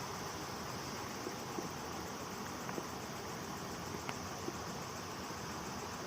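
Steady chorus of night insects such as crickets over a constant hiss, with a few faint small taps or splashes here and there.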